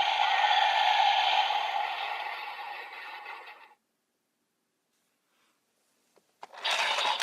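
Electronic sound-effect and music playback from a Kamen Rider Build toy transformation gadget fades away over about three and a half seconds. Then comes a gap of silence with two small clicks, and a new burst of the toy's sound starts near the end.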